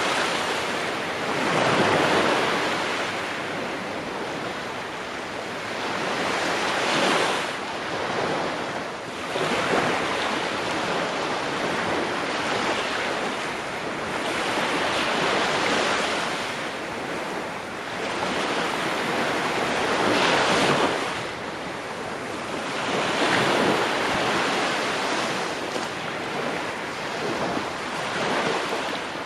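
Ocean waves breaking on a shore, the surf rising and falling in surges every few seconds.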